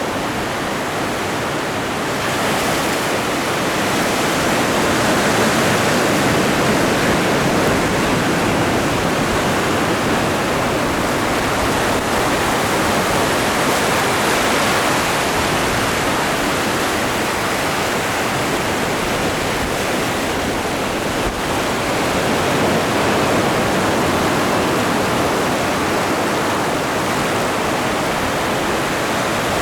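Atlantic Ocean surf breaking on the shore, a continuous rushing wash that swells and eases slowly.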